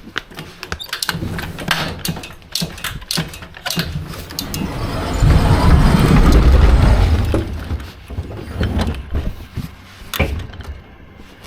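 Pallet unloading at the back of a truck: a string of knocks, clanks and clicks, with a heavier rolling rumble for about two and a half seconds around the middle.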